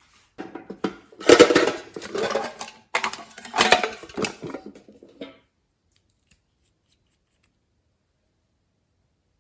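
Slime being squished and kneaded by hand: irregular wet clicks and crackles for about five seconds, loudest twice, then it stops.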